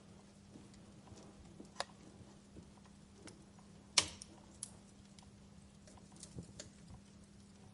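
Fireplace crackling: scattered sharp pops at irregular intervals, the loudest about four seconds in, over a faint steady hum.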